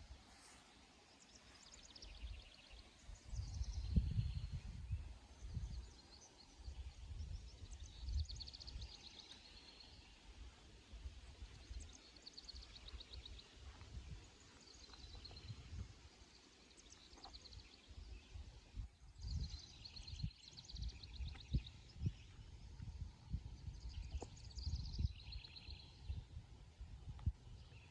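Songbirds singing in short phrases every few seconds, with no single species clear. Uneven low rumbles run underneath, strongest about four seconds in and again in the second half.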